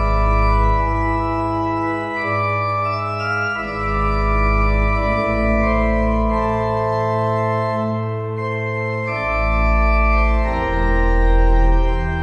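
Organ playing slow, sustained chords, the bass note and harmony changing every second or two.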